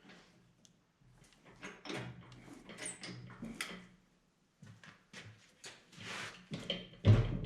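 Scattered clicks, knocks and clanks of tools and parts being handled in a car's engine bay during an engine removal, louder near the end.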